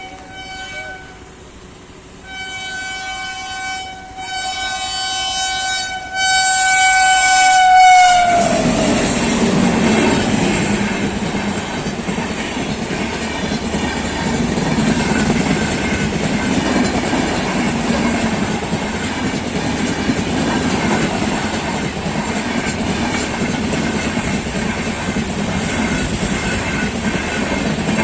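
Train horn sounding three blasts, the last one long and dropping in pitch as the locomotive passes. Then the steady running noise of the train rolling past the crossing.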